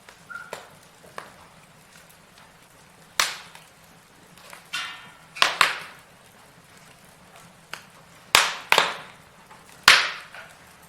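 Logs burning in a fireplace, crackling: irregular sharp pops and snaps over a faint steady hiss of the fire. The loudest pops come from about three seconds in, some in quick pairs.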